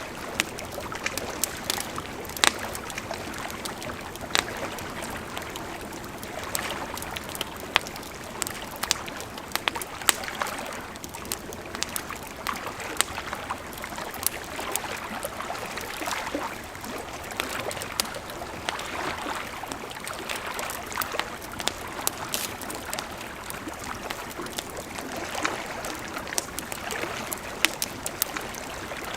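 Wood campfire crackling, with frequent sharp, irregular pops and snaps, over the steady rush of a flowing river.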